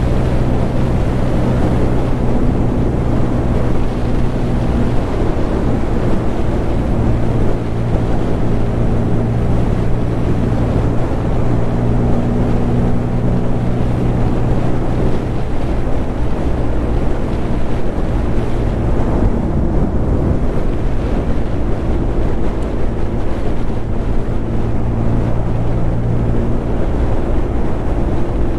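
Bajaj Pulsar N250's single-cylinder engine running at a steady highway cruise, with wind buffeting the helmet microphone.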